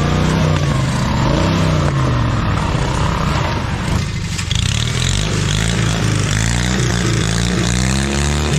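Modified off-road racing lawn tractor engines revving hard, their pitch rising and falling again and again, over a constant noisy rush.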